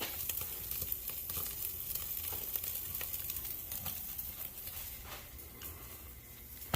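Strip steaks sizzling on a very hot charcoal grill grate while searing, with a steady crackle of small fat pops that eases a little toward the end.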